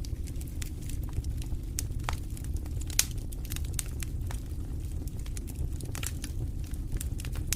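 Wood fire crackling in a fireplace: irregular sharp pops and snaps over a steady low rumble of the flames, with one louder pop about three seconds in.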